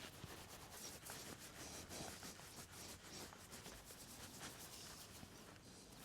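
Faint scratching and rubbing, a string of short scratchy sounds.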